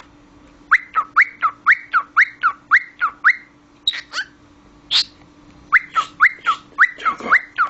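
Cockatiel whistling a quick string of short rising chirps, about three or four a second, in two runs with a few harsher calls between them.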